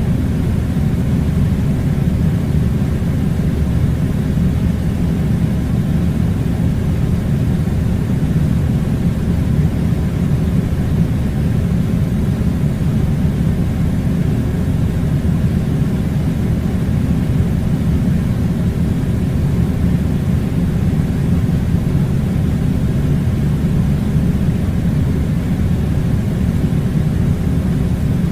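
Air conditioning unit running: a steady, unchanging low rumbling hum.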